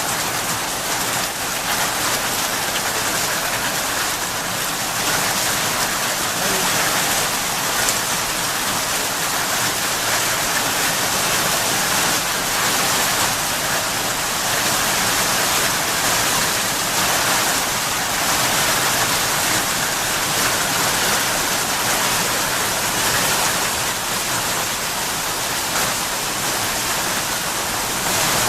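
Hail and rain pelting down together: a steady, dense clatter of countless small impacts.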